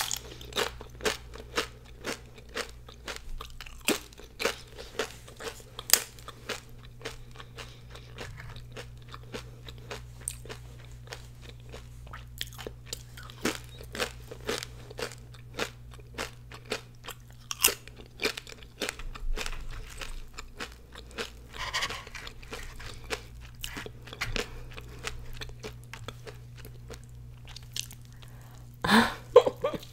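Close-up crunching and chewing of crisp fried tortilla chips, with sharp crunches coming a couple of times a second. Near the end comes a louder bite into a crisp fried birria taco.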